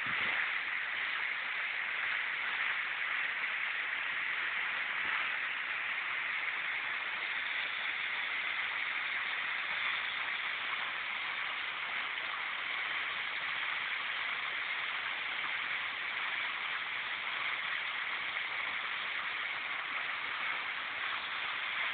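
Waterfall splashing steadily, a constant even rush of falling water.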